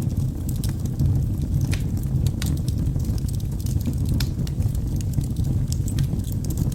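Wood fire burning in a fireplace: a steady low roar of the flames with frequent sharp crackles and pops from the burning logs.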